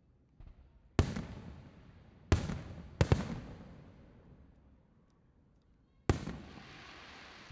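Aerial firework shells bursting: five sharp bangs, each trailing off in a fading echo, two of them in quick succession about three seconds in. The last bang, near the end, is followed by a long hiss.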